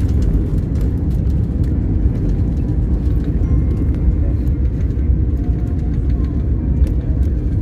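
Airliner cabin noise during descent: a steady, loud low rumble of engines and airflow heard from a passenger seat.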